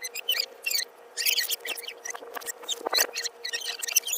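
Rapid high-pitched squeaky chatter, like voices played back very fast, over a steady thin tone with no bass.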